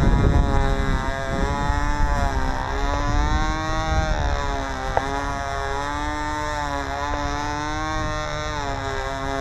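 Small model-airplane glow engine of a Shark 45 control-line stunt plane buzzing at full throttle, its pitch rising and falling every couple of seconds as the plane circles. Wind rumble on the microphone underneath.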